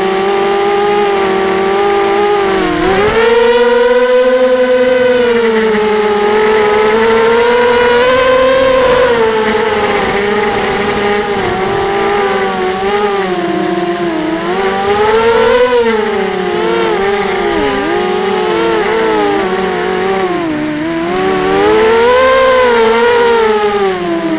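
Blackout 250 mini quadcopter's brushless motors and propellers whining in flight, their pitch rising and falling with the throttle. The owner suspects from this sound that at least one motor is on its way out.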